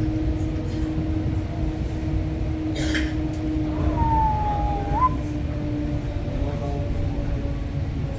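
Electric Metrorail commuter train running, heard from inside the carriage: a steady low rumble with a steady hum. About four seconds in, a brief squeal slides down in pitch and then jumps back up.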